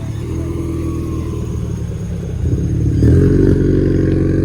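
Car engine running with a steady, deep note, revved up louder about three seconds in.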